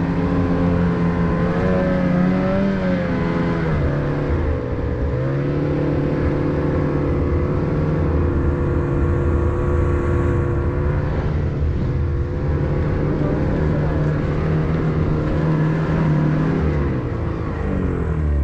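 Snowmobile engine running steadily, its pitch rising and falling with the throttle a few seconds in and dropping near the end.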